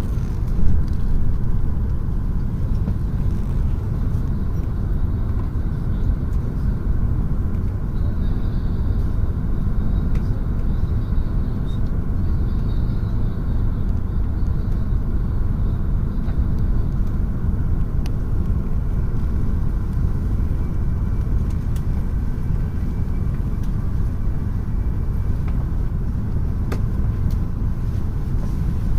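Tohoku Shinkansen train running at speed, heard from inside the passenger cabin: a steady low rumble with faint ticks.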